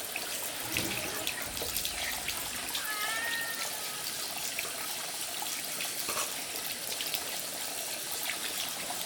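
Steady splash of running water with scattered small clicks, and a short faint animal call about three seconds in.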